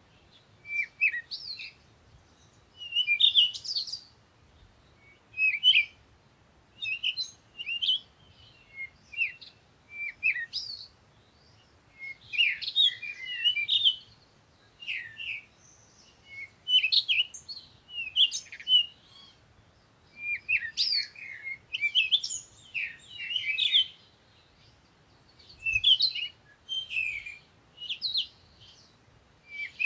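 Songbirds chirping and singing: quick high-pitched chirps and short trills in bursts every second or two, with brief pauses between.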